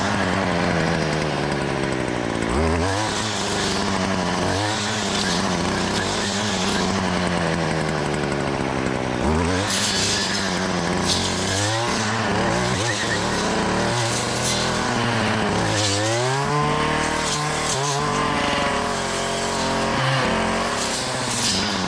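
Gas brush cutter's small engine revving up and dropping back toward idle again and again, throttled in bursts every few seconds while cutting brush.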